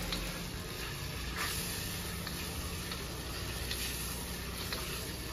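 Raw chicken pieces sizzling in a black wok over a portable gas stove, stirred with a wooden spatula, with a few faint clicks of the spatula against the wok.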